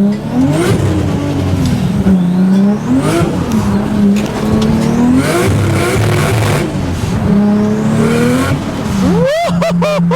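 Modified big-turbo Nissan Skyline R33 engine being revved hard, its pitch climbing and falling back about five times. A quick burst of high squealing glides comes near the end.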